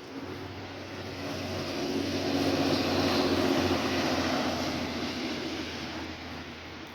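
A vehicle passing by, its sound swelling to a peak about three seconds in and then fading away, over the steady patter of rain.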